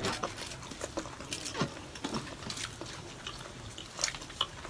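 People eating up close, chewing and smacking their lips, with many short, irregular wet clicks.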